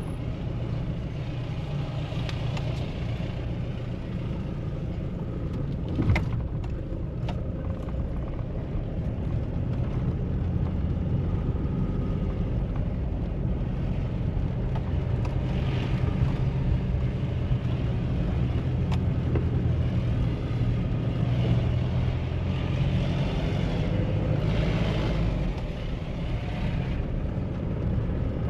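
Mahindra Bolero's diesel engine running under way, a steady low rumble mixed with road noise that grows louder about ten seconds in. A single sharp click sounds about six seconds in.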